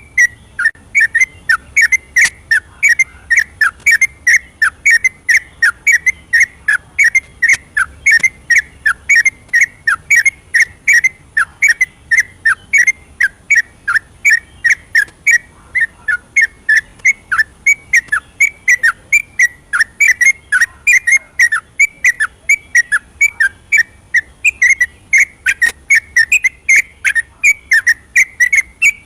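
Yellow-vented bulbul singing its rapid, unbroken 'ropelan' song: short, falling whistled notes, about three a second, each with a sharp clicky edge.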